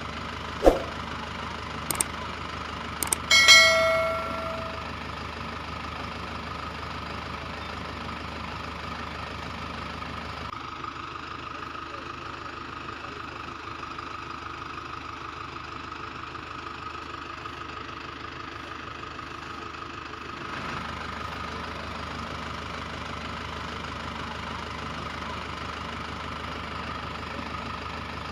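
Steady tractor-engine idling sound, with a few sharp clicks near the start and a single bell-like ring about three and a half seconds in that fades over a second or so. The engine sound changes tone for about ten seconds in the middle, then returns.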